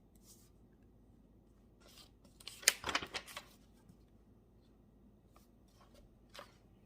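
Small handling sounds at a study desk: a quick cluster of rustling clicks about two and a half seconds in, then a single click near the end.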